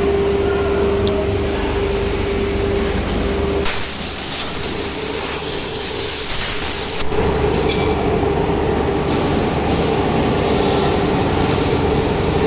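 Carousel automatic tool changer CNC router running with a steady whine; about three and a half seconds in, the whine drops out under a loud hiss of air lasting about three seconds, then returns at a slightly higher pitch.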